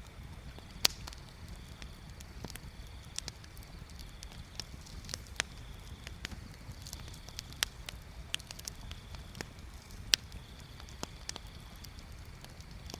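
Bonfire crackling: sharp pops and snaps at irregular intervals, two louder ones about a second in and near ten seconds in, over a low steady rumble.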